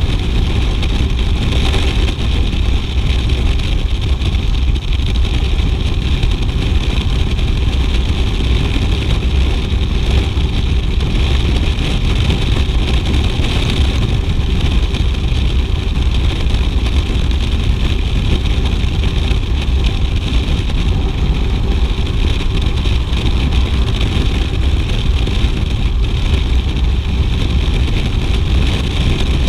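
BMW R 1200 GS motorcycle's boxer-twin engine running steadily while riding, mixed with wind noise.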